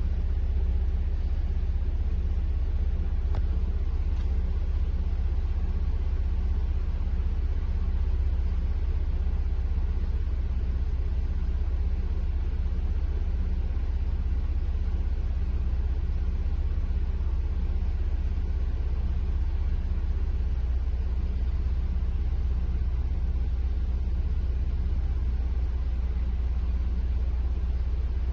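Audi TT engine idling steadily at a cold-start warm-up idle, an even low rumble with no revving.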